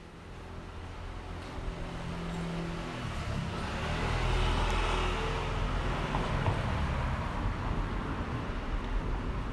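A car passing on the street, growing louder to a peak about halfway through, then easing off.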